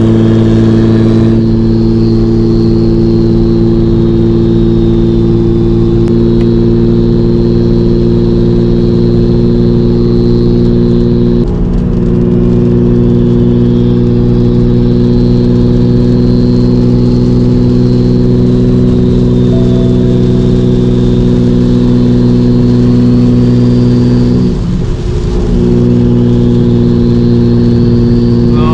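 Single-turbo BMW 335i's N54 inline-six with a hood-exit pipe, droning steadily at a constant engine speed while driving, with a faint high whine above it. The engine note breaks briefly about twelve seconds in and again about twenty-five seconds in.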